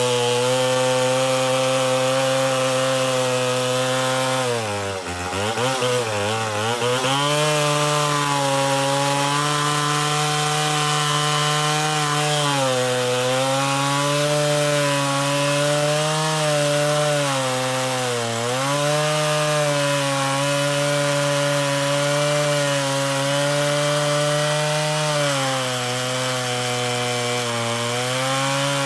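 Stihl Contra Lightning two-stroke chainsaw, bored out to 137 cc, running hard at high revs. Its pitch drops deeply and wavers about five seconds in, then dips briefly several more times before coming back up.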